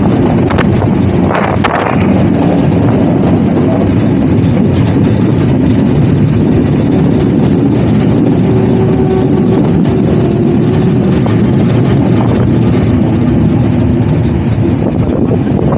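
Moving passenger train heard from its open doorway: a steady, loud rumble of the running train, with wind rushing past the microphone.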